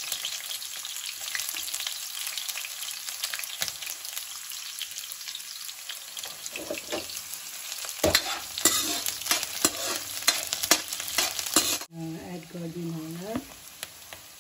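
Chopped onions and green chillies sizzling steadily in hot oil in a wok. From about eight seconds in, a steel ladle stirs them, clattering and scraping against the pan.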